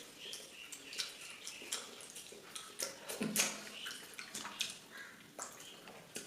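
Close-up eating sounds: wet smacking and clicking of chewing, in a quick irregular run of short clicks.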